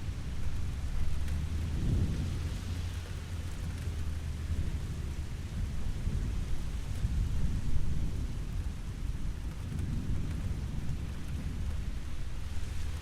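Steady rain falling, with low rolling thunder rumbling underneath that swells about two seconds in and again near ten seconds.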